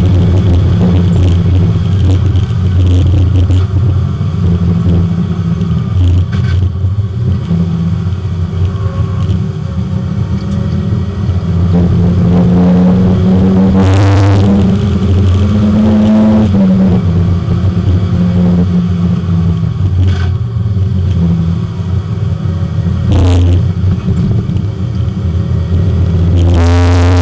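Porsche 924 race car's four-cylinder engine heard from inside the car, running hard on track, its pitch climbing and dropping through several gear changes.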